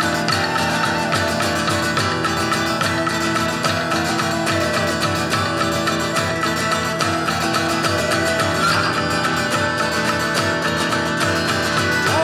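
Live band music, instrumental, with guitar to the fore over a steady beat.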